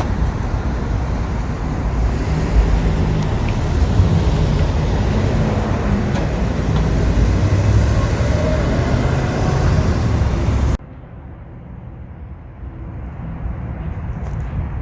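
Shuttle bus passing close by, its engine and road noise loud and heavy in the low end. The sound cuts off abruptly about eleven seconds in, leaving a much quieter background.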